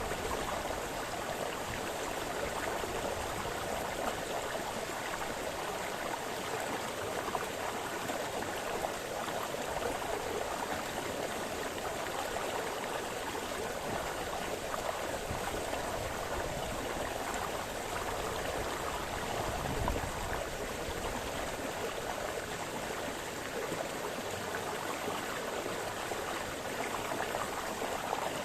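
A brook splashing and burbling over stones, a steady, unbroken water sound.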